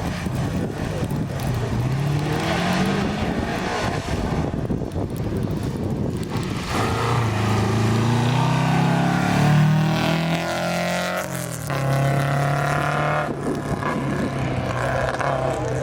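A rally car's engine driven hard past on a special stage. The revs climb and drop again with gear changes, and it is loudest around the middle.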